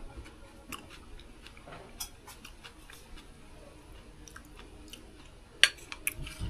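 A person chewing a mouthful of rourou, boiled taro leaves in coconut milk with raw onion and garlic, with scattered small clicks; a sharper click stands out near the end.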